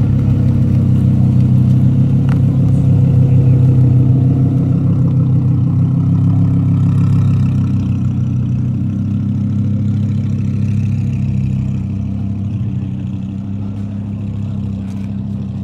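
Audi R8's V10 engine running at low revs as the car creeps past and pulls away slowly, growing quieter over the last few seconds as it moves off.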